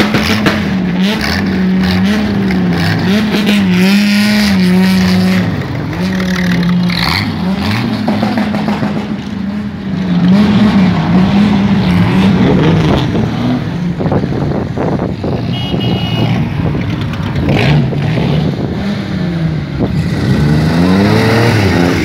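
Big V6 and V8 engines of classic cars and hot rods running and revving as the cars drive slowly past. The engine note rises and falls over and over, with a louder spell from about ten seconds in.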